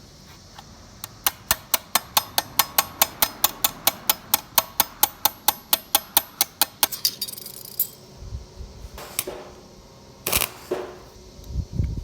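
A run of about two dozen sharp, evenly spaced taps, about four or five a second, stops short about seven seconds in and gives way to irregular clatter and a few heavier thumps.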